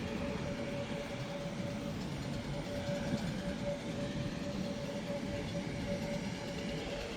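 Steady rumble and hiss of a vehicle in motion, with a steady mid-pitched hum running through it.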